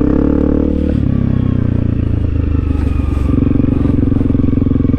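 Honda CRF300L dual-sport motorcycle's single-cylinder engine running under throttle while riding through mud. The engine note climbs slightly, drops about a second in, then holds steady.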